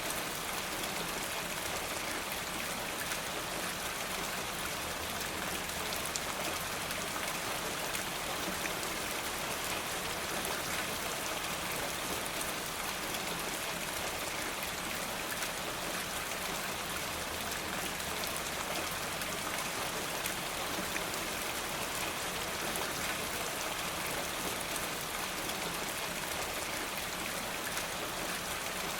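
Steady rain falling, an even hiss with fine scattered ticks of drops.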